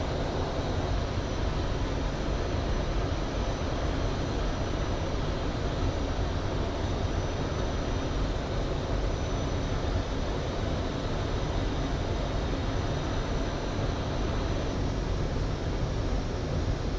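Steady flight-deck noise of a Boeing 747-400 in descent: a constant rush of airflow and air conditioning, heaviest in the low end. A faint thin high tone runs underneath and stops near the end.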